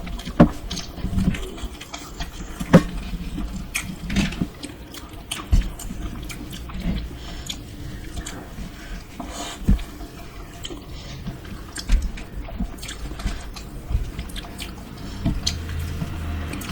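Dosa being eaten up close: chewing and biting, with many irregular sharp clicks and snaps.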